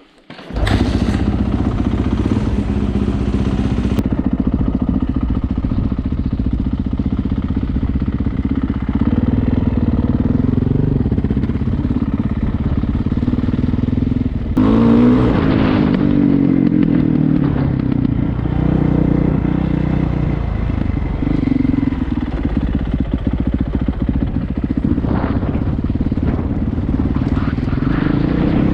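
Honda CRF450R single-cylinder four-stroke engine running steadily, with a brief rise and fall in pitch about halfway through as the throttle is blipped. A hiss sits over the first few seconds and stops abruptly. The bike is being run to hunt for an intake air leak behind a whistle on acceleration.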